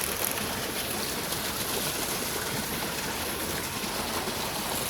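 Steady rushing of flowing water, an even noise with no distinct events.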